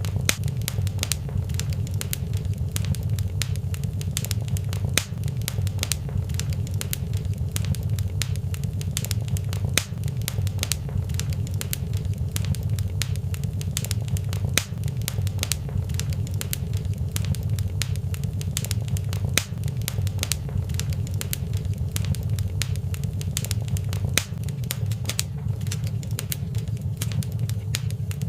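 Fire crackling in a fireplace: a steady low rumble with many sharp pops and crackles scattered throughout.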